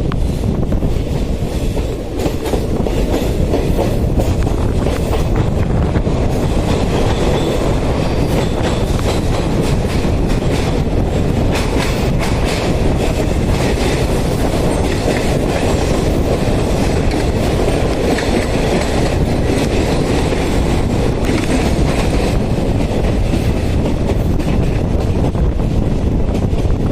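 An Indian Railways train running on the rails, loud and steady, its wheels clattering over the rail joints with a fast run of clicks.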